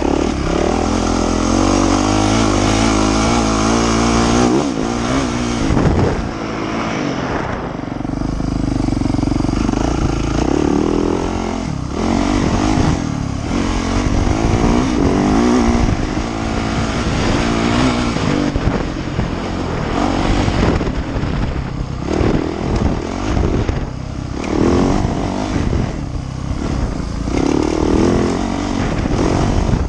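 Yamaha YZ450F dirt bike's four-stroke single-cylinder engine being ridden hard, its pitch rising and falling as the throttle opens and shuts, with short drops every few seconds between pulls.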